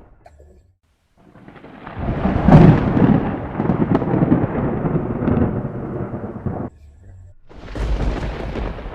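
Thunder rumbling: a deep roll builds about a second in, is loudest a second later, and cuts off abruptly near seven seconds. Another rumble starts near the end.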